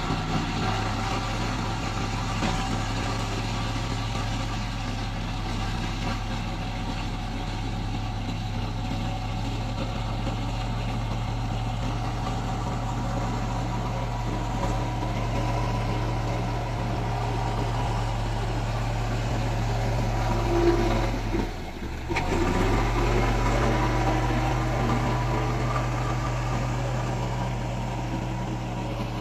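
Diesel engine of a heavy road-construction machine running steadily with a low, even hum. It dips briefly about three-quarters of the way through, then picks up again.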